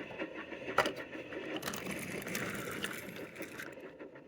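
A toy train running along its track: a steady rattling whir with many small ticks, and one sharper click just under a second in.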